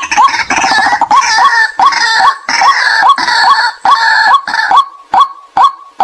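White-breasted waterhen calling: a monotonous run of short 'kwak' notes, about two to three a second. A rougher, denser chattering chorus runs under them and drops away about five seconds in, leaving the single repeated note.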